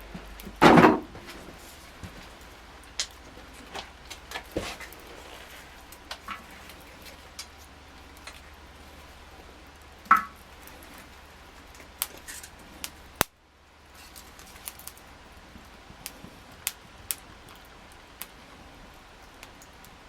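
Wood campfire crackling, with scattered sharp pops and snaps. A louder knock or clatter comes about a second in and another about halfway through, and the sound drops out briefly about two-thirds of the way through.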